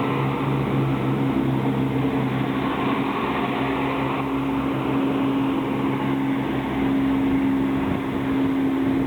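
A vehicle engine running at a steady speed, giving a continuous low hum whose pitch holds level.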